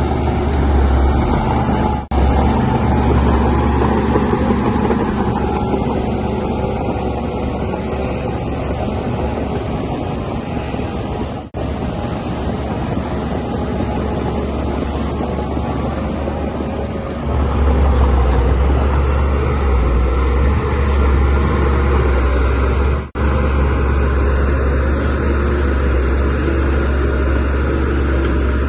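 Shantui DH17C3Pro bulldozer's diesel engine running steadily under load with a deep hum while it works fill. It grows louder about two-thirds of the way through and drops out briefly three times.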